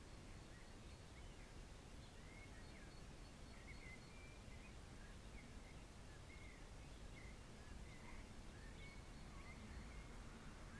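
Faint birds chirping in short scattered calls over a steady low background hiss.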